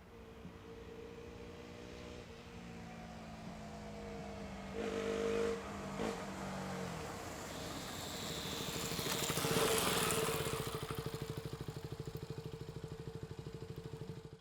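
KTM Duke 125's single-cylinder 125 cc engine running through its stock exhaust. It grows steadily louder, with a short louder burst about five seconds in and its loudest point about ten seconds in, then runs with a fast, even pulse until the sound cuts off at the end.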